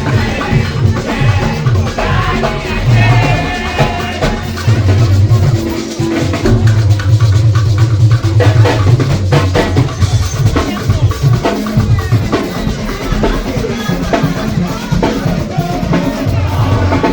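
Music played on a drum kit, with kick drum, snare and a heavy bass line under other pitched instruments.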